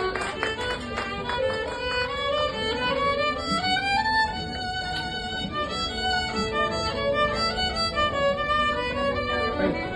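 Music: a violin playing a melody, the notes stepping up and down continuously.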